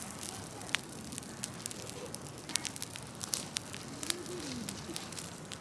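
Large wood bonfire burning, crackling with frequent sharp, irregular pops and snaps over a steady rush of flame.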